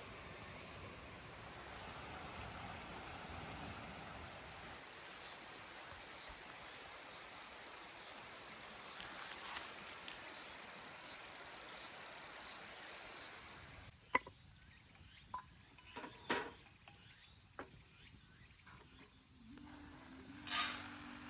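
Insects trilling steadily in a high, continuous chorus, pulsing about one and a half times a second. About two-thirds of the way through the chorus stops and a few sharp clicks and knocks follow, with a louder rustling burst near the end.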